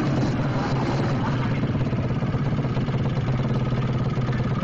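Suzuki Satria FU drag-bike engine idling steadily, with no revs.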